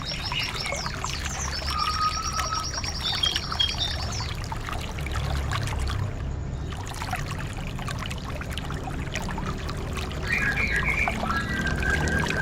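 White-eye (pleci, Zosterops) song: a rapid high trill and short chirps, with more chirps near the end, over a steady trickle of running water.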